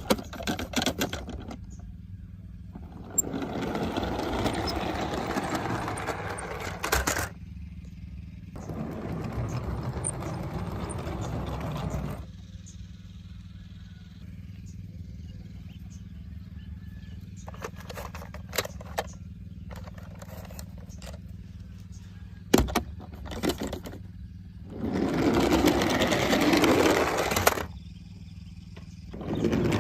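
Toy cars whirring in several bursts of a few seconds each, with scattered clicks and knocks between them, over a steady low hum.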